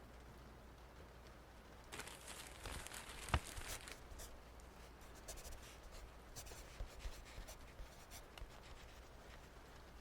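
Writing on paper, heard faintly: a busy run of scratchy strokes about two to four seconds in, with one sharp tap as the loudest moment, then lighter, scattered scratches.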